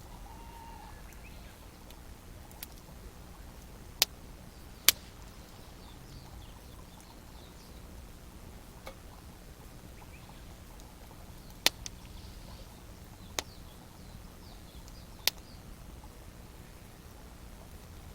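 Wood campfire crackling: a few sharp, irregular pops from burning firewood, the loudest two about four and five seconds in, with faint birdsong behind.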